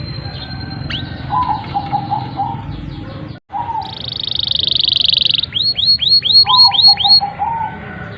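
Domestic canary singing: short high chirps and lower warbling notes, then a long high buzzing trill about four seconds in, followed by a run of about seven quick swooping whistled notes.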